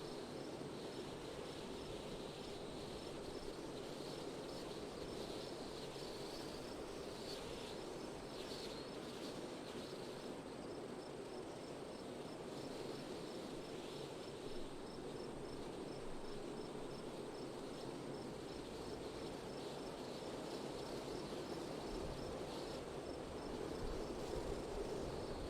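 Steady wind noise, with a faint, regular high chirping repeating about twice a second throughout.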